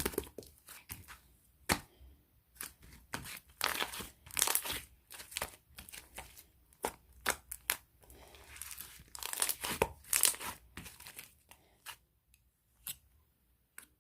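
Irregular crinkling and tearing noises, dense at first and thinning to a few scattered clicks over the last two seconds.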